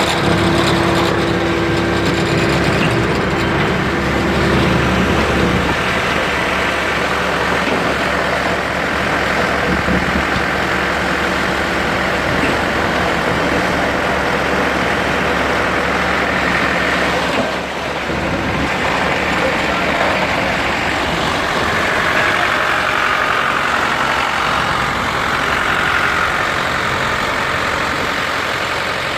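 Motor engines running steadily, with street noise and some voices mixed in; a low engine hum is strongest in the first six seconds.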